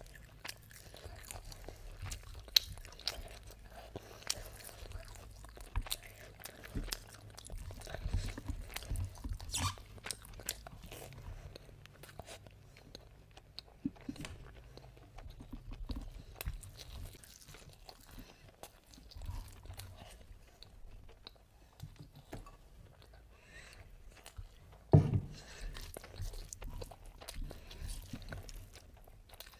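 Close-miked eating of mutton biryani by hand: chewing and wet mouth smacks with many small irregular clicks. A single loud thump stands out about 25 seconds in.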